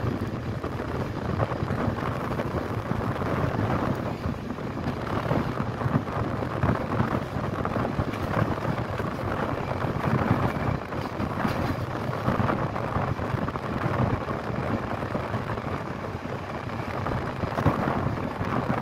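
Passenger train running on the rails, heard from a carriage window: a steady rumble and rush with irregular knocks and clacks as the wheels cross rail joints and points.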